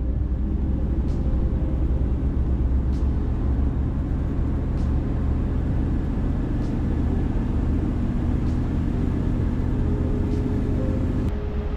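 A vehicle on the road: a steady low rumble of engine and road noise, with a faint sharp tick about every two seconds.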